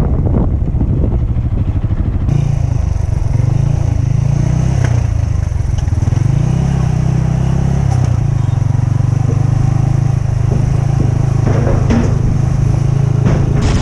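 Motorcycle engine running while riding, its pitch rising and falling with the throttle, over a steady rush of wind and road noise.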